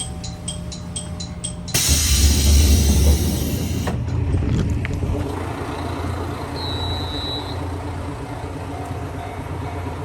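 Rapid, evenly spaced chiming ticks, then about two seconds in a sudden loud rush of noise over a low rumble that settles into a steady rumbling run: a train on the move.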